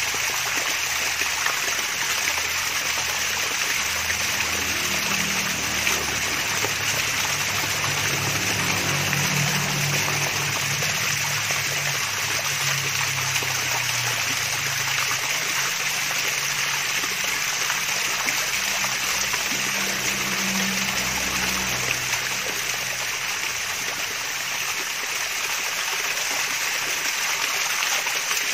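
Water from a small waterfall splashing and trickling steadily, an even rushing babble with a faint low gurgle underneath.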